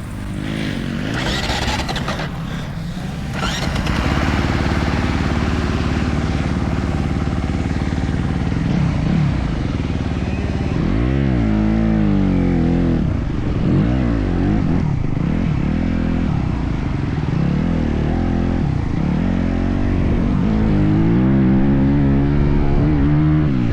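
Motocross dirt bike engine running hard, its pitch rising and falling again and again with the throttle from about ten seconds in.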